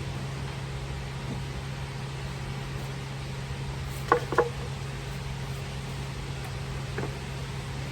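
Mack MP8 common-rail diesel engine idling with a steady low hum. Two sharp clicks come about four seconds in, and a smaller one near the end.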